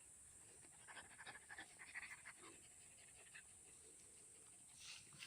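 Dog panting quickly and faintly, in short rapid breaths that are clearest in the first half.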